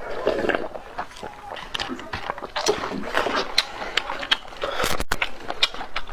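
Eating sounds: wet chewing with frequent sharp mouth clicks and smacks.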